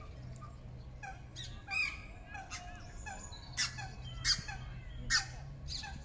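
Birds calling: about half a dozen short, sharp, high calls, the loudest in the second half, with softer chirps between them over a low steady hum.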